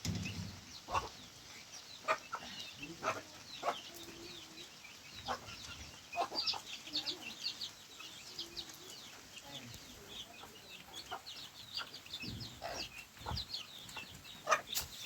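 Chickens clucking, with many short high chirps throughout and a few sharp clicks.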